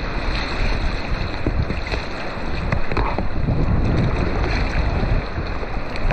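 Strong wind on the microphone, a gusty low rumble, over the steady rush of rough sea.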